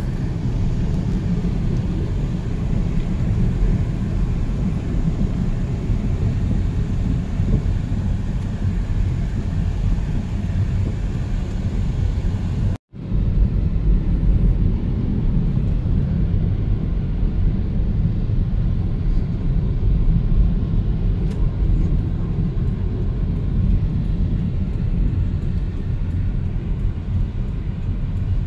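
Steady low rumble of a moving vehicle, engine and road noise heard from on board, dropping out for a moment about 13 seconds in.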